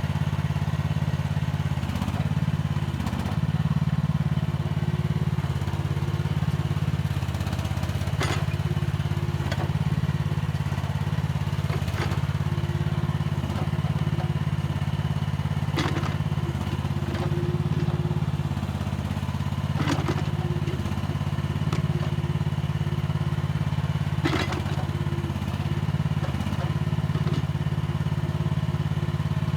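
Mini excavator's engine running steadily under working load, with sharp metallic clanks about every four seconds as the bucket and arm work the soil.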